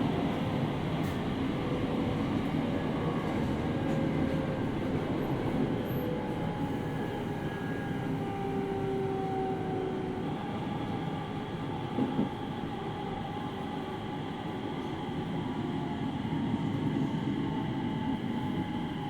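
Interior running sound of a JR 701 series 5500-subseries electric train, heard in the motor car: steady wheel and track rumble under a hum of motor tones that slowly shift in pitch. There is a single short knock about twelve seconds in.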